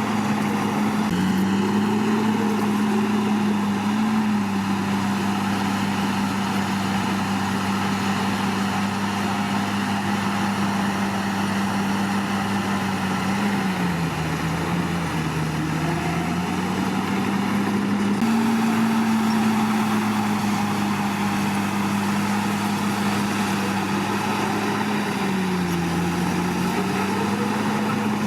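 Komatsu D61PX bulldozer's diesel engine running steadily. Its pitch sags briefly about halfway through and again near the end, and steps up slightly about two-thirds of the way in.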